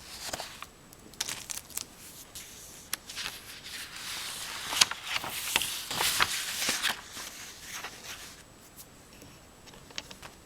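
Dry, scratchy rubbing and rustling against paper, broken by many sharp ticks. It is busiest in the middle and dies down near the end.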